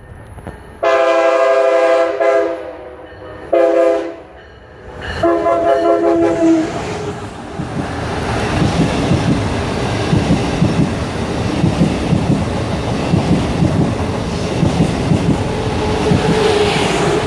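Train horn sounding three blasts, a long one, a short one, then a longer one. Then a passenger train passes close at speed: a loud steady rush with the fast clickety-clack of wheels over the rails.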